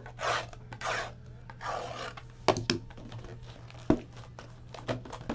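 Trading cards and their cardboard packaging being handled: several rubbing, sliding swishes, then a few sharp light taps.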